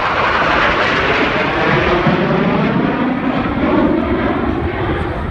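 Loud, steady jet noise of USAF Thunderbirds F-16 fighters flying past, with faint gliding tones in the noise, easing slightly near the end.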